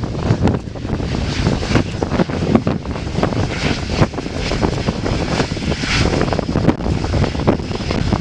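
Airliner engines passing, heard through gusting wind buffeting the microphone.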